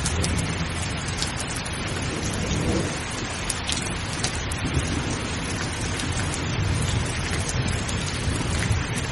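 Steady heavy rain, with scattered close drops ticking over the hiss, and a low rolling rumble of thunder underneath.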